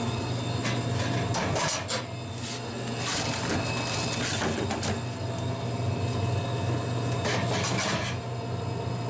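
Aluminium soda cans being set by hand into a Dixie Narco vending machine's can column, with a series of knocks and scrapes of can against metal every second or two over a steady low hum.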